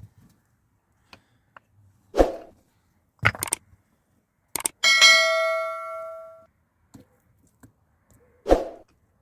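A few separate knocks and clanks of hard objects being handled. About five seconds in, one metallic clang rings out and dies away over about a second and a half.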